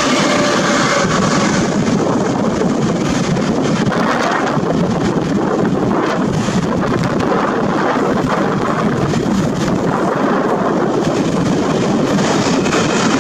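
Express passenger train passing through a station: a loud, steady rumble of the train running along the rails.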